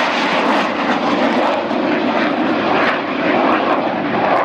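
Jet engine noise from the Red Arrows' BAE Hawk T1 display jets flying past, a loud, steady rushing sound.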